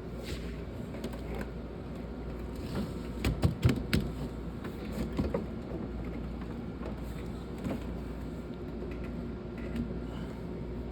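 Sharp air conditioner running with a steady hum. A few sharp clicks and knocks come about three to four seconds in, with another near five seconds.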